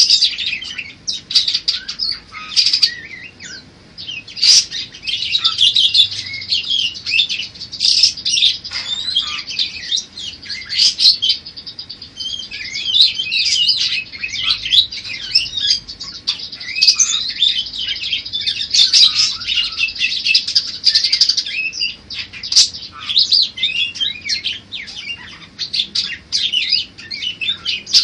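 Pet parakeets chattering and warbling without pause, a dense stream of quick high chirps and trills with some longer buzzy runs in the middle.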